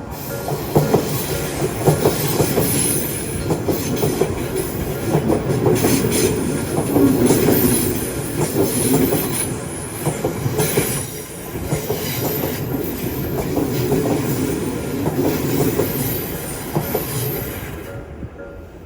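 Electric train running past close by: steady rumble of the wheels with repeated clacks over rail joints and a high wheel squeal, fading near the end as the train moves away.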